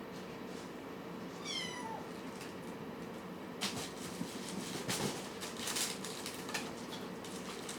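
A kitten gives one short, high meow that falls in pitch, followed a couple of seconds later by a series of soft clicks and rustles. A steady low hum runs underneath.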